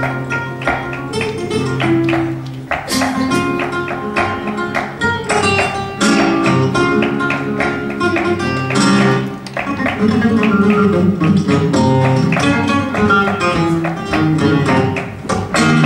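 Flamenco music: acoustic guitar playing with many sharp percussive strikes throughout.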